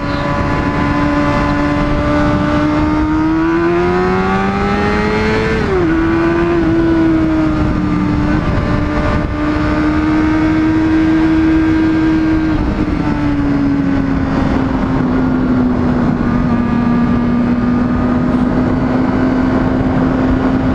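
Honda CBR600RR inline-four sport-bike engine running hard at steady high revs while riding. It climbs in pitch, drops suddenly at a gear change about five and a half seconds in, then holds and eases down again around thirteen seconds, with a constant rush of wind noise.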